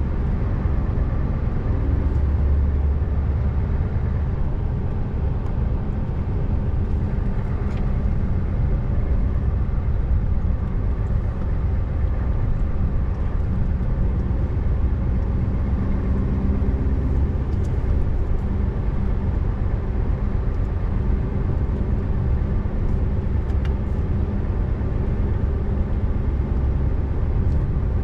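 Scania R590's V8 diesel engine running steadily as the truck drives, a deep, even drone with road noise.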